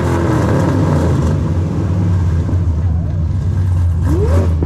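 Steady engine and road drone heard from inside the cabin of a Mitsubishi Lancer Evolution X's 2.0-litre turbocharged four-cylinder while driving, with a short rising tone about four seconds in.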